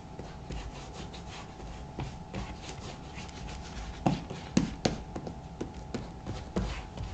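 Shoe cream being rubbed into the black leather of a Thorogood moc toe boot with soft, repeated scrubbing strokes. A few sharp taps come about four seconds in and again near the end.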